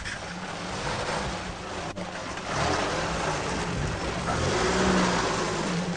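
UAZ off-roader's four-cylinder petrol engine working under load in four-wheel drive as the vehicle drives across rough grassy ground, its note rising and falling. It gets louder about two and a half seconds in.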